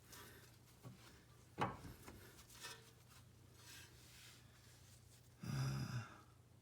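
Faint clicks and knocks of hand tools and parts being handled on a car's front suspension, with one sharper knock about a second and a half in and a brief rougher scraping noise near the end.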